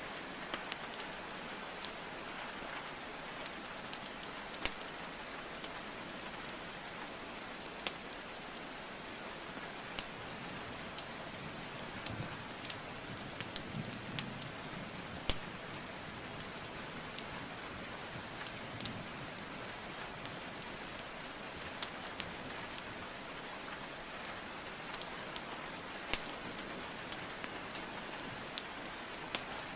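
Steady rain hiss mixed with a wood fire crackling: irregular sharp pops and snaps from burning logs scattered through, a little busier about halfway.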